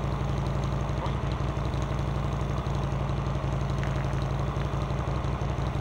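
Motorcycle engine idling steadily, with an even, unchanging note.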